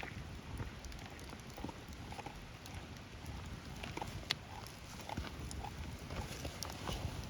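Wood fire crackling, with scattered small snaps and one sharp pop about four seconds in.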